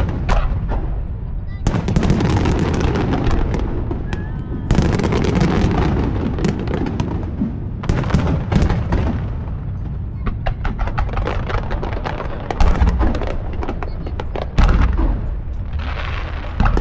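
Aerial fireworks going off in a continuous display: a booming burst every few seconds, each trailed by a long run of crackling.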